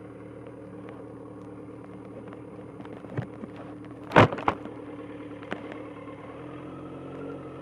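Motorcycle engine idling steadily at low speed, with one loud sharp knock about four seconds in and a few lighter clicks around it.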